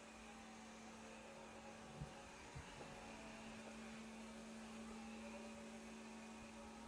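Near silence: faint room tone with a steady low hum and two soft clicks about two seconds in.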